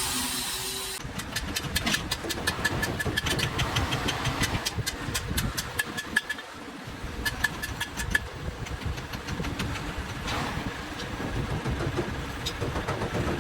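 An engine running with a rapid, uneven clicking knock, its low rumble dropping out briefly about six seconds in.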